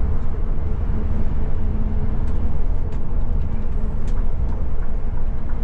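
Scania Metrolink multi-axle coach cruising on the highway: a steady low drone of engine and road noise heard from on board, with a few faint clicks or rattles.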